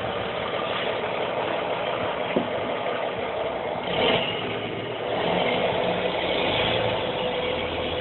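Steady motor drone, with a single sharp click about two and a half seconds in.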